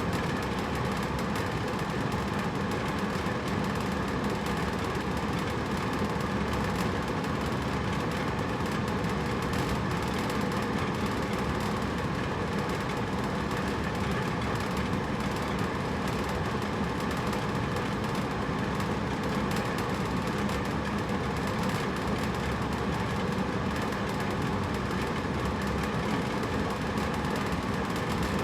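Hotel room air conditioner running steadily: an even rush of blown air with a low, constant hum.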